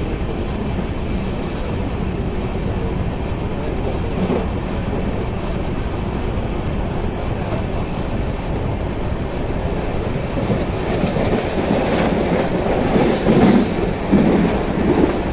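Train running at speed, heard from an open door or window alongside the coach: a steady rumble of wheels and rushing air. From about two-thirds of the way in, louder clattering and sharp clicks come in as the wheels cross rail joints and points.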